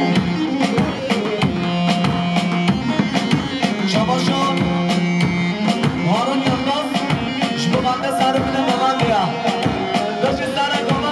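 Kurdish wedding dance music played live: an ornamented melody line that slides up and down between notes, over a fast, steady drum beat, with no singing.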